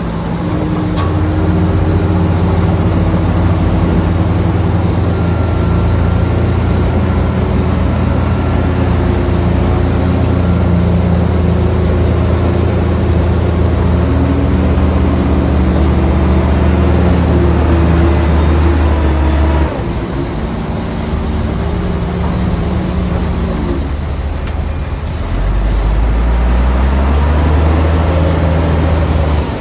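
Heavy diesel engine of earthmoving machinery running hard under load. Its low drone drops suddenly about two-thirds of the way through, slides down in pitch, then picks up again near the end.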